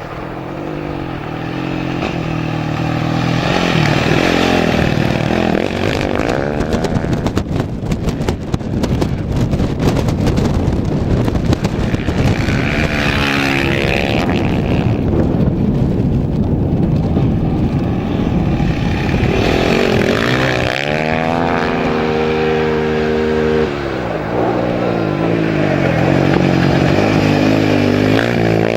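Off-road rally engines revving hard as machines go past. The pitch climbs in steps through the gears several times and drops as each one passes by.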